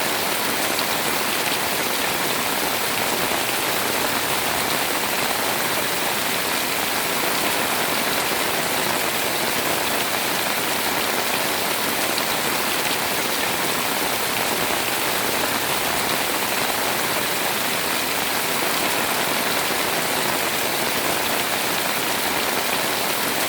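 Heavy rain pouring steadily, with a dense hiss of drops hitting surfaces.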